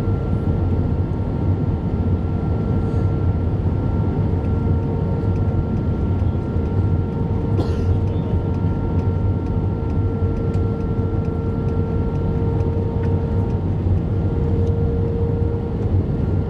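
Airbus A320 cabin noise: a steady engine and airflow rumble with a constant hum of several tones, and one short click about halfway through.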